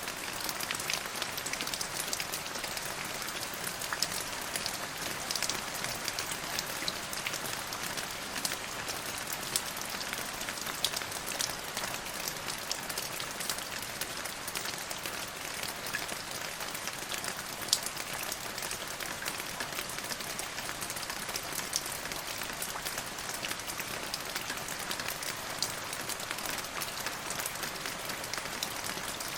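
Steady rain, an even hiss dotted with many small, sharp drop ticks.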